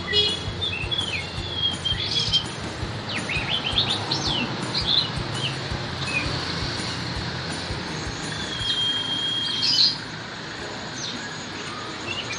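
Songbirds chirping and whistling in short varied phrases, with one long held whistle near the end, over steady background noise.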